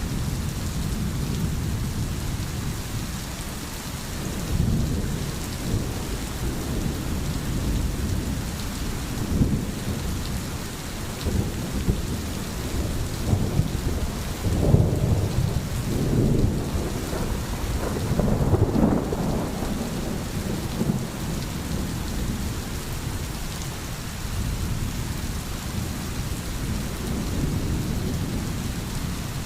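Steady rain with thunder rumbling low in the background, the rumble swelling loudest around the middle.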